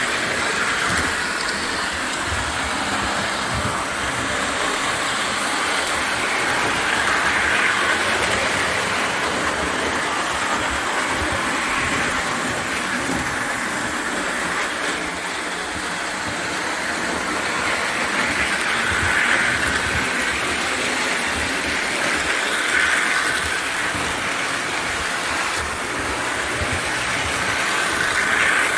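O gauge toy train running around the track: a steady motor whine and wheel-on-rail rumble that swells and fades every few seconds as it comes by.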